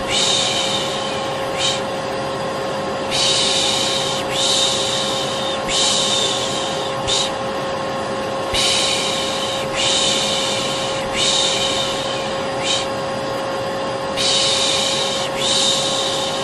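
Vacuum cleaner running with a steady hum, under a person's rhythmic 'shh' shushing of the kind used to soothe a baby to sleep: three long shushes and a short one, repeating over and over.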